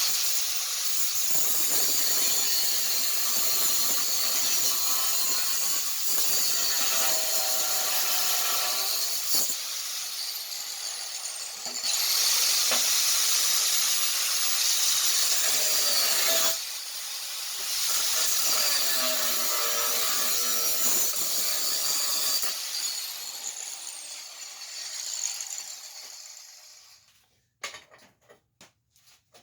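Angle grinder cutting steel angle iron, a loud hissing grind over the motor's high whine. It stops and spins back up twice, winds down near the end with a few small clicks, and starts up again at the very end.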